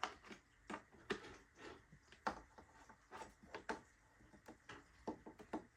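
Scattered light clicks, taps and rustles from handling the plastic and foam wing of a model RC airplane while fitting it onto the fuselage.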